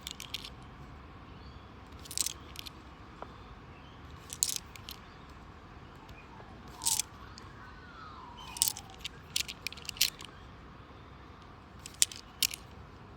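Australian $2 coins clicking against one another in short clusters every couple of seconds as they are handled and sorted from a roll. A faint bird call glides up and down about seven seconds in.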